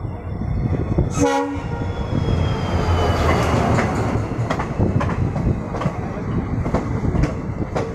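A short, single train horn blast about a second in. Then an Indian Railways passenger train passes close by on the adjacent track: a steady rumble, and from about halfway through a rapid series of wheel clicks as the coaches cross the rail joints.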